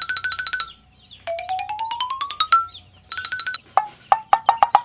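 Electronic cartoon sound effects: a fast-repeating beeping tone that cuts off under a second in, then a quick run of notes rising in pitch, another short burst of beeps, and a rapid series of clicky taps near the end.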